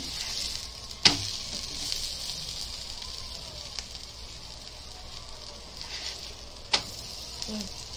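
Oiled paratha sizzling steadily in a frying pan as it is pressed with a slotted spatula, with two sharp taps of the spatula against the pan, about a second in and near the end.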